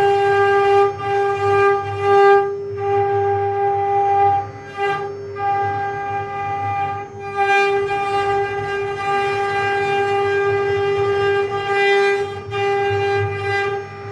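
Mini CNC router spindle running with a steady high-pitched whine. The level dips briefly a few times.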